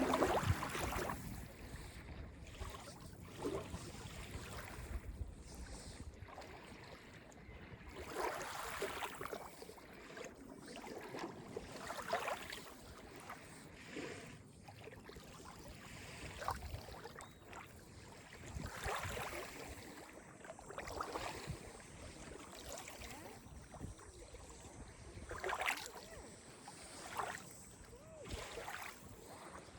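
Small, calm waves of Lake Ontario lapping and splashing against the beach shore, in irregular splashes every few seconds.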